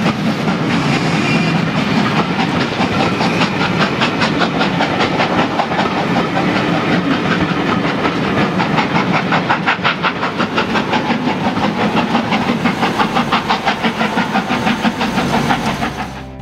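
Steam-hauled passenger coaches rolling past at a level crossing, their wheels clicking over the rail joints in a fast, steady rhythm. The sound cuts off suddenly near the end.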